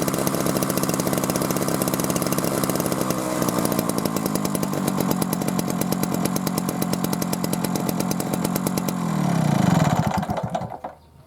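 Old Gasuden two-stroke stationary engine running steadily with rapid, even firing. About nine seconds in, the firing slows and drops in pitch, and the engine coasts to a stop shortly before the end.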